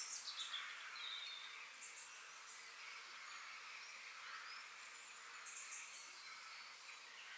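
Nature ambience of birds chirping over a steady high insect hiss, with short clusters of very high chirps near the start, about two seconds in and again about five and a half seconds in.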